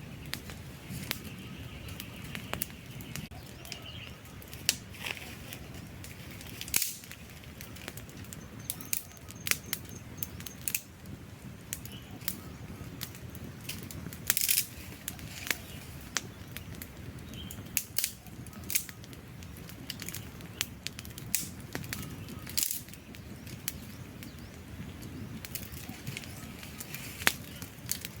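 Wood campfire burning, with irregular sharp crackles and pops over a steady low rumble of flames.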